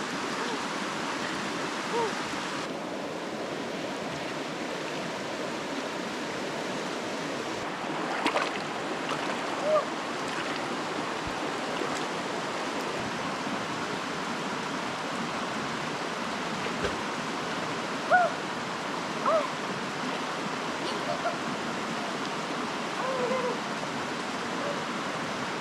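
Steady rushing noise of running water in a rainforest, with a few brief chirps scattered through it.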